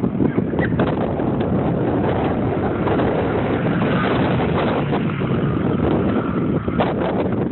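Dirt bike engines running, with wind buffeting the microphone.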